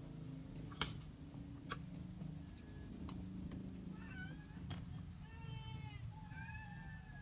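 A cat meowing three or four times in the second half, the later meows drawn out and falling in pitch. A few sharp clicks come before the meows.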